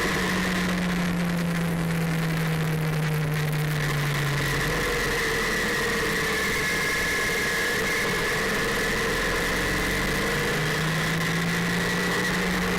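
2008 Triumph Scrambler's air-cooled parallel-twin engine running under way, heard with wind rush at the handlebar. The engine note drops about four seconds in and climbs again near the end.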